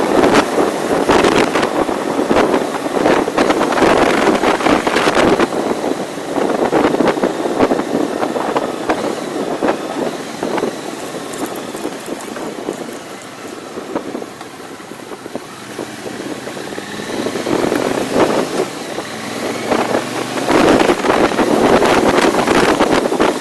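Wind rushing over the microphone of a moving vehicle, with the vehicle's running noise underneath. It eases off for a few seconds midway, then builds again.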